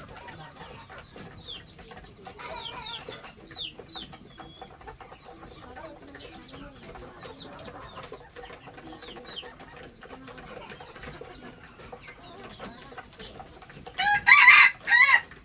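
Chickens clucking, with many short, high, falling chirps throughout. Near the end a rooster crows loudly in two parts.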